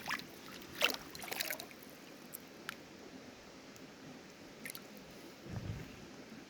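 Faint trickle of river water, with a few light clicks scattered through and a soft low thump a little past halfway.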